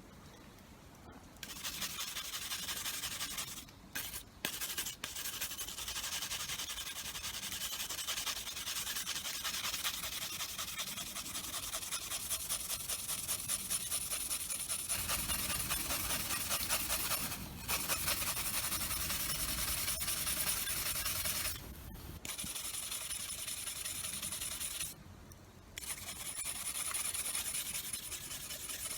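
Rapid, continuous rubbing and rasping strokes of hand tool maintenance, such as scrubbing or filing a tool, with a few brief pauses.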